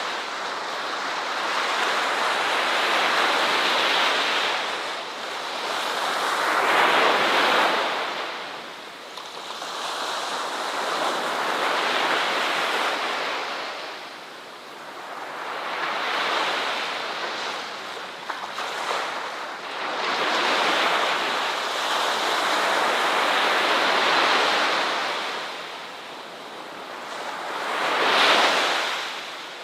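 Ocean surf washing onto a shore, the rush of water swelling and fading in waves every four to five seconds, one of the loudest swells coming near the end.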